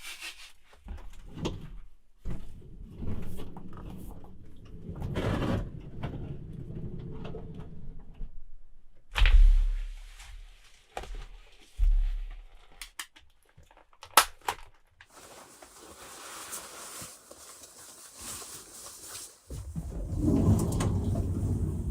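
A series of knocks, thumps and rustling handling noises, like doors and gear being moved, with a loud low thump about nine seconds in.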